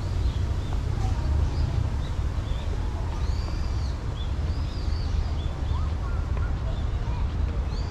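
Small birds chirping, with short arching calls heard several times, over a steady low rumble.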